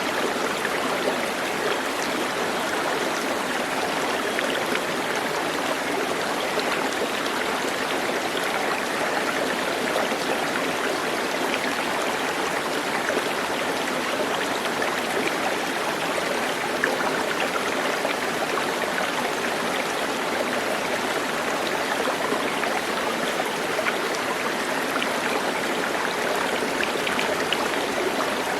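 Running water, like a stream flowing over rocks: a steady, even rushing that does not change.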